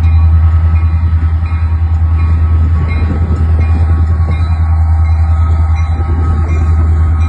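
Union Pacific diesel locomotive leading a freight train past at close range: a loud, steady engine rumble with regular wheel clicks, about one every 0.7 seconds.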